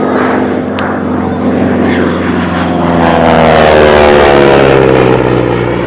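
Propeller-driven airplane flying past low, its engine note swelling to its loudest about four seconds in and then dropping in pitch as it goes by.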